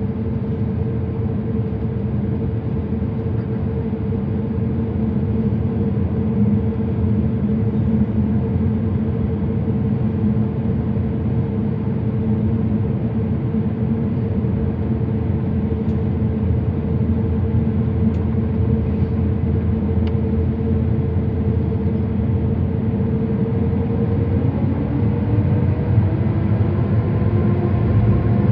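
Inside the cabin of an Airbus A350-1000 on the ground: a steady engine rumble with a held hum from its Rolls-Royce Trent XWB engines. About four seconds before the end the engines start to spool up for takeoff, a whine rising in pitch and growing louder.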